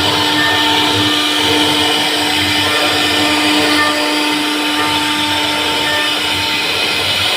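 CNC router spindle running steadily with a constant whine while cutting wood.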